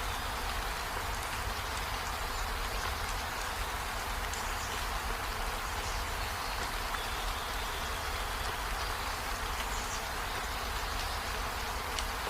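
Steady rain falling: an even, unbroken hiss with a few faint drip ticks.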